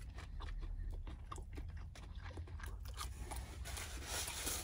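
Close-up chewing of a sauce-dipped chicken nugget: irregular soft, wet mouth clicks and smacks over a steady low hum.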